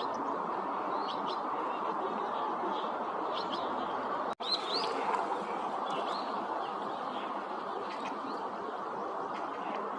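Birds calling: short, scattered high chirps over a steady, dense background din. The sound drops out for an instant just under halfway through.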